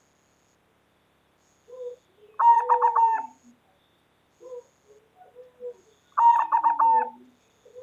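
Zebra dove (perkutut) cooing: two loud bursts of quick, rapidly repeated coo notes, each just under a second long and about four seconds apart, with softer low single coos between them.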